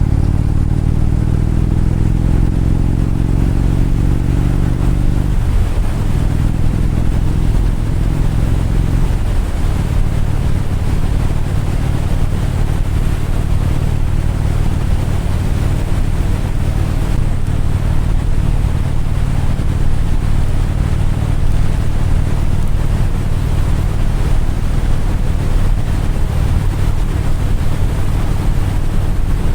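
Motorcycle engine under way, dropping in pitch twice in the first ten seconds as it shifts up, then running steadily at cruising speed with road and wind noise.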